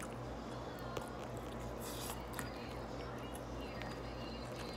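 Close-up eating sounds: chewing and small mouth noises, with light clicks and scrapes of a plastic spork in a disposable bowl, over a steady low hum.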